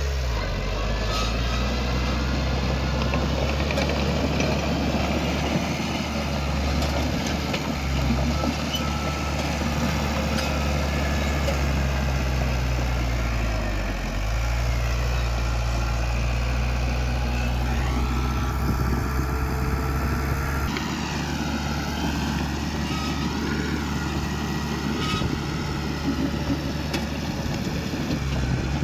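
Heavy diesel engine of earthmoving machinery running steadily, with a low hum whose pitch sags briefly about halfway through, as if under a sudden load, and then recovers.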